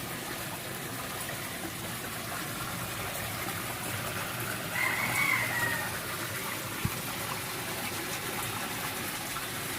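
A rooster crows once, about five seconds in, over a steady rush of flowing water.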